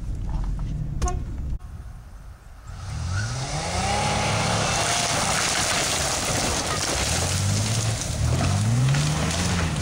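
GMC Jimmy engine revving up and easing off several times as it is driven off-road, over a steady loud hiss. Before that, a low rumble with a few clicks stops suddenly about one and a half seconds in.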